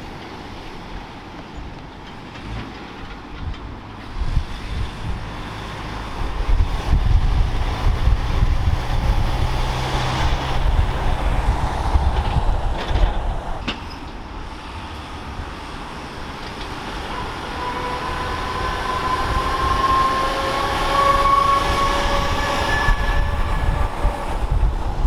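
A heavy vehicle passing close by with a low engine rumble that swells. About two-thirds of the way in, a steady high whine rises over it.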